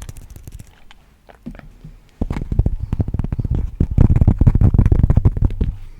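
Fast, aggressive tapping and scratching close up on a sensitive ASMR microphone: a dense run of quick taps with a heavy low-end thud. It is lighter at first and gets much louder about two seconds in.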